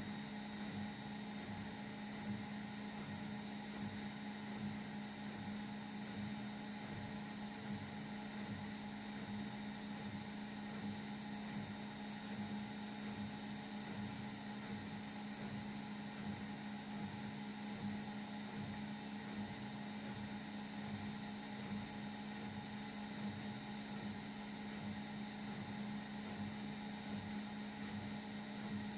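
Indesit washing machine running a test-mode cycle, giving a steady, unbroken hum.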